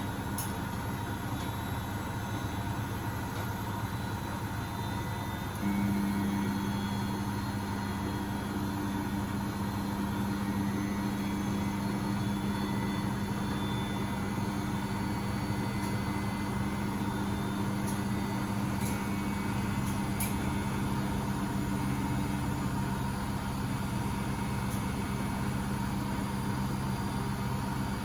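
Beko WMB71642W washing machine on its first intermediate spin, set to 1000 rpm: a steady drum-and-motor hum. A louder steady hum comes in suddenly about six seconds in and holds.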